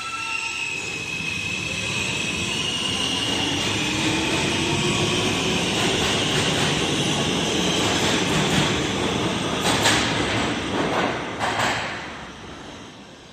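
R160 subway train accelerating out of the station: traction motors whine, rising in pitch, over the rumble of the wheels on the rail. A few sharp clacks of wheels over rail joints come near the end, then the sound fades as the train pulls away.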